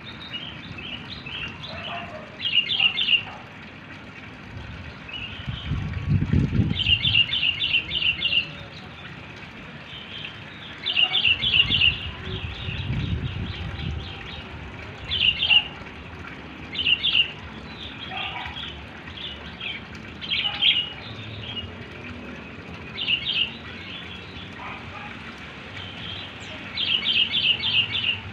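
A bird calling in short, rapid runs of about four to six high notes, repeated every few seconds. Wind gusts on the microphone twice.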